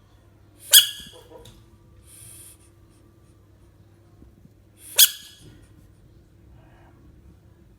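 Two short, sharp animal cries about four seconds apart, with a brief hiss between them.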